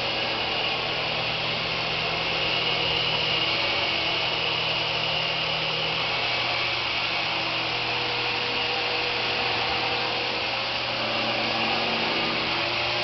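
Syma S107 toy helicopter's coaxial rotors and small electric motors whirring steadily in flight, a buzzing hum whose pitch shifts a little now and then.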